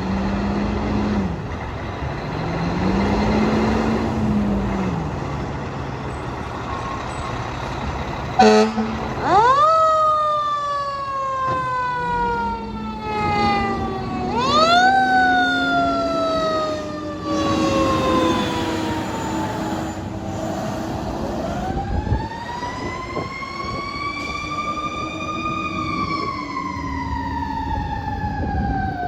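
Fire apparatus responding with sirens: siren sweeps that climb quickly and wind down slowly, overlapping a second slower rising and falling siren, with a short air horn blast about eight seconds in. Heavy truck engines run underneath throughout.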